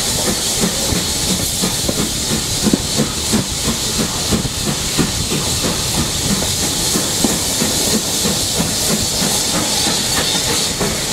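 Steam train running: a steady hiss of steam with a rapid, irregular clatter of wheels over the track.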